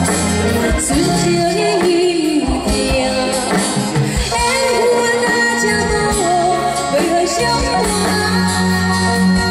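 Live band playing a pop song: a bending melodic lead line over steady bass and drums, with no clear sung words.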